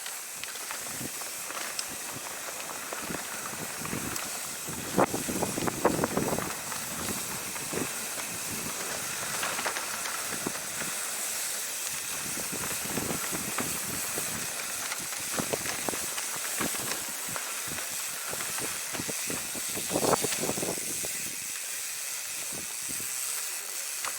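Steady hiss of wind over the microphone and bicycle tyres rolling on a dirt trail, with rattling clatter from bumps about five seconds in and again near the end.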